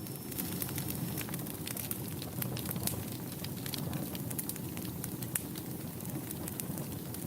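Wood fire crackling in a fireplace: a steady low rumble of flames with frequent irregular sharp pops and crackles.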